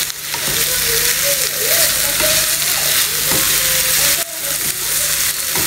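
Diced sausage and onion sizzling as they fry in olive oil in a frying pan, stirred and pushed around with a wooden spatula. The hiss is steady, with a brief drop about four seconds in.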